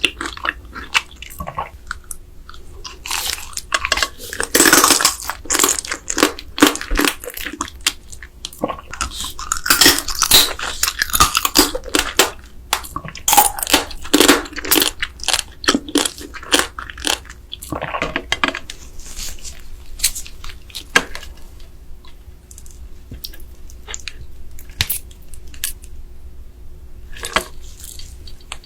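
Close-miked eating of raw soy-sauce-marinated crab: irregular chewing, biting and crunching. The sounds come in uneven clusters, with a quieter stretch about three-quarters of the way through.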